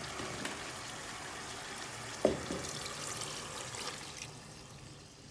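Seasoned water being poured into a pot of simmering curry chicken, with a single knock about two seconds in; the pouring stops about four seconds in.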